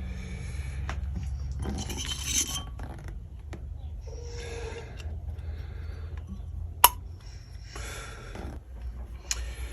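Metal engine parts clinking and scraping by hand as the top end of a 250cc quad bike engine is taken apart around the cylinder head and push rods. There is a sharp metallic click about seven seconds in, over a low steady hum.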